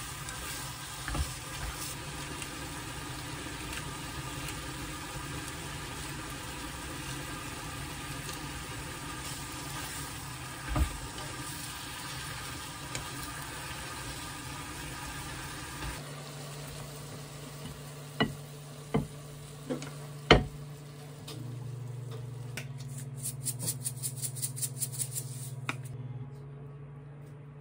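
Thinly sliced pork belly and bean sprouts sizzling in a frying pan as they are stir-fried with chopsticks. About sixteen seconds in, the sizzling cuts off; a few sharp knocks follow, then a quick run of light ticks.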